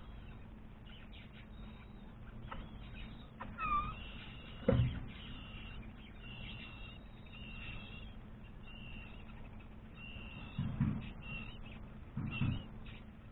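Birds giving short, high chirps over and over, with a couple of falling call notes about four seconds in. Three low thumps come through as well, the loudest about five seconds in and two more near the end.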